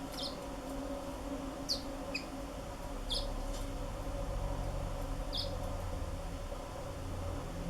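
Black-throated canaries giving short, high single chirps, about five of them spaced a second or two apart, over a steady low hum.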